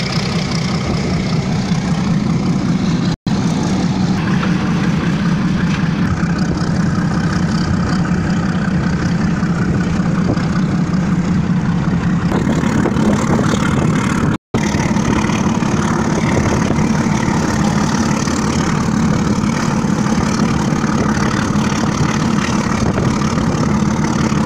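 Passenger train running at speed, heard from its roof: a loud, steady rumble and rush of running noise. The sound cuts out briefly twice, about three seconds in and about fourteen seconds in.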